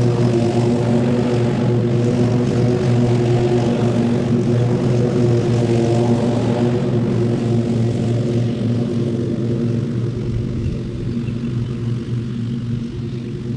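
Small gasoline engine running steadily at a constant speed. The higher-pitched noise over it eases off from about eight seconds in.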